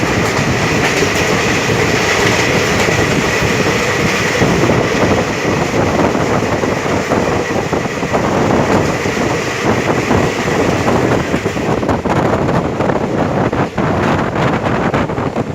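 Passenger train running at speed, a loud steady rumble of wheels on rails with irregular clickety-clack over the rail joints and a thin high whine through the first half.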